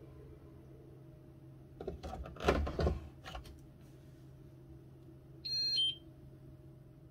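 Miele W1 washing machine: a few knocks and a brief clatter about two to three seconds in, then a short two-note electronic beep from its control panel near the end, over a low steady hum.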